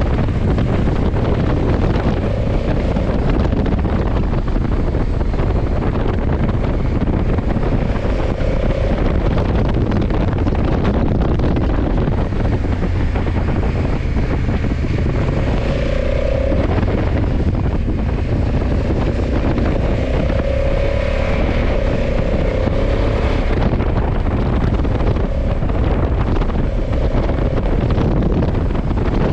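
Wind rushing over the microphone of a motorcycle riding at speed, over the steady running of a Honda CRF1100 Africa Twin's parallel-twin engine.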